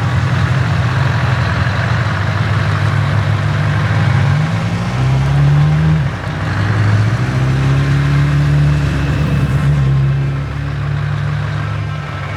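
Heavy truck's diesel engine with open exhaust pipes, running loud under load. The pitch climbs about five seconds in, drops sharply about a second later, rises again and eases off near the end.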